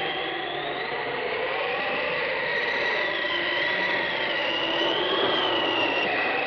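Spooky sound effect from a vinyl Halloween record: a steady whirring rush of noise with a high whistling tone that slowly wavers up and down.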